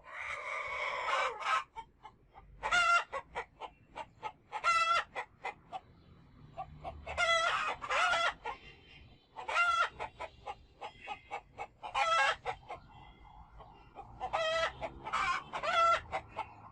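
Chickens in a poultry shop: roosters crowing again and again, a call about every two to three seconds, with short clucking notes in between.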